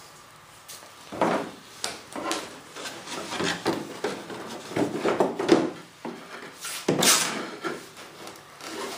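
Irregular knocks and rubbing scrapes of a hand-cut wooden bulkhead being handled and test-fitted, with the strongest knocks about a second in, around the middle and about two seconds before the end.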